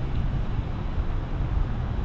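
Wind buffeting the microphone of a moving bicycle's camera, a steady low rumble, with street traffic noise mixed in.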